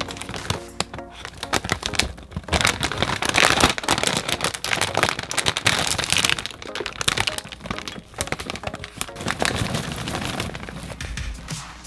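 Crackling, crinkling snack packaging being handled, with many rapid irregular crackles.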